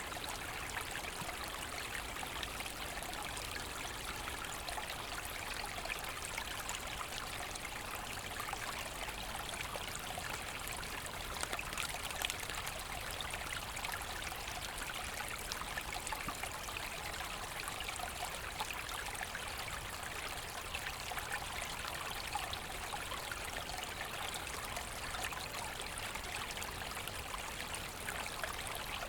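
Small woodland brook babbling and trickling steadily over its bed, with no break or change.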